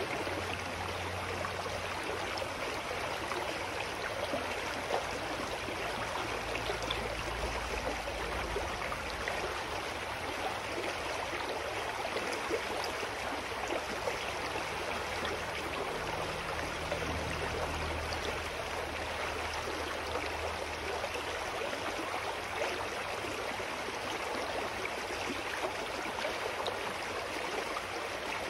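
Shallow mountain stream running steadily over rocks, a continuous rush of water. A faint low hum comes and goes underneath.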